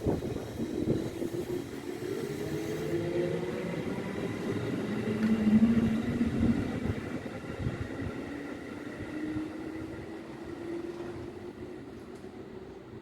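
Electric train on the Tokaido Main Line, its traction motors whining in slowly rising tones over the running rumble. The sound swells to its loudest about six seconds in, then fades away.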